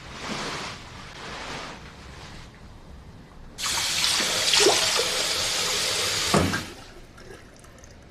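Water running in a steady stream for about three seconds, starting and stopping abruptly, with softer swells of noise before it.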